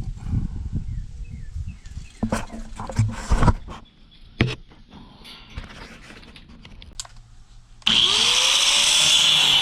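Metal scrap knocking and clanking with a few sharp impacts. Nearly eight seconds in, a loud motorized power tool starts abruptly and runs steadily with a high whine.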